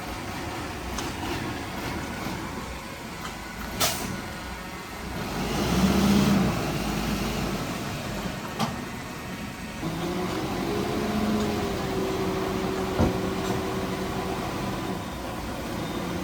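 Heavy diesel earthmoving machinery at work. The engine noise swells loudly about six seconds in, and another engine revs up and holds a steady pitch from about ten seconds on. A few sharp knocks come through.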